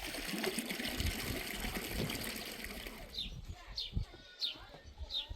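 Water running and trickling, which fades out about three seconds in. A small bird then calls over and over, a short falling chirp about every two-thirds of a second.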